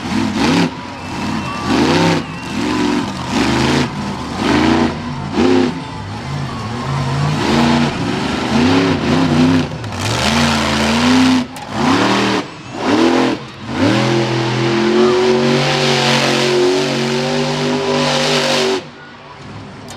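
Monster truck engine revving in quick repeated blips, rising and falling in pitch, then held at high revs for about five seconds before cutting off sharply near the end.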